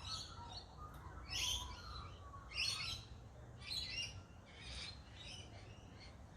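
A bird giving a series of about six harsh, bark-like calls, roughly one a second, growing fainter toward the end.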